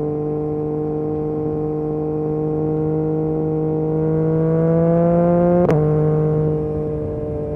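Yamaha MT-09 SP's three-cylinder engine through an Akrapovic exhaust, pulling at a steady pitch, then rising in revs for about a second and a half. After about five and a half seconds there is a sharp click and the pitch drops at once, as at an upshift, and the engine then runs steady again.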